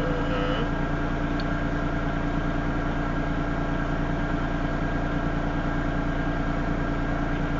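Engine idling: a steady, even drone with a constant low hum.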